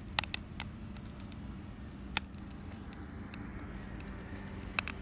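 Campfire wood crackling, with a few sharp pops: several near the start, one about two seconds in, and two close together near the end. A steady low hum runs underneath.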